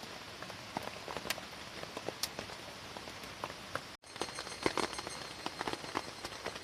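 Steady rain falling on a tarp, with individual drops landing as separate sharp ticks over the hiss. The sound breaks off for an instant about four seconds in.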